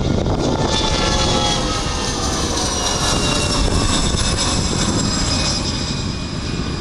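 Bombardier CRJ-200 regional jet's twin rear-mounted GE CF34 turbofans running loud, a high whine sliding steadily down in pitch over the jet roar, easing off slightly near the end.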